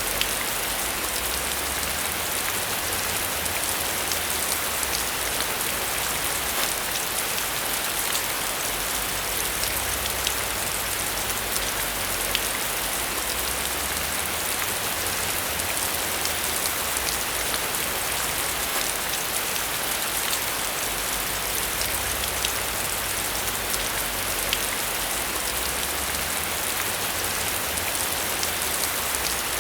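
Steady rain falling on a surface, an even hiss full of fine drop ticks, with a faint low rumble underneath.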